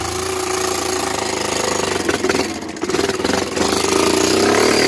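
Honda 300EX ATV's single-cylinder four-stroke engine running with its loosely refitted muffler, dipping briefly near the middle and then getting louder over the last second or so.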